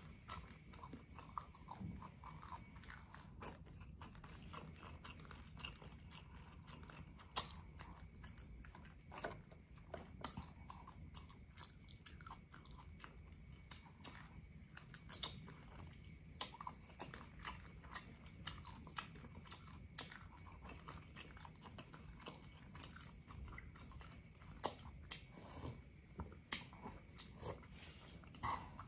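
Close-up eating sounds: chewing and biting of boiled beef shank meat eaten by hand, with irregular short mouth clicks and smacks.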